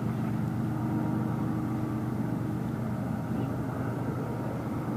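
Diesel locomotive engines running with a steady, even low drone.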